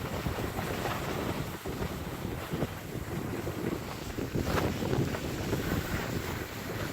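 Wind buffeting the microphone in a steady rough rush, with the hiss of sliding downhill over snow.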